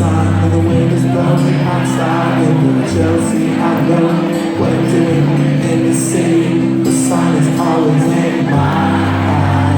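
Rock band playing an instrumental passage before the vocals come in: sustained bass and guitar notes that change every second or two, with a light percussion strike about once a second.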